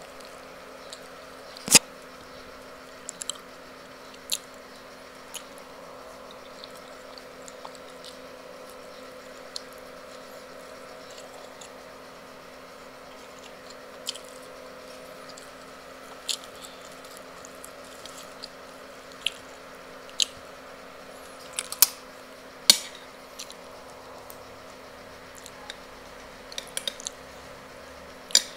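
Eating sounds: chewing and mouth noises of someone eating chicken and mashed potato, with scattered sharp clicks and taps, including a spoon against the plate near the end, over a steady low hum.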